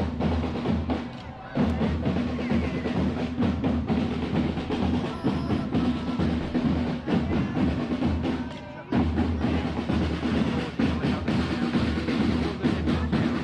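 Drums playing a steady rhythm with rolls. The sound dips briefly about a second in and again near nine seconds in.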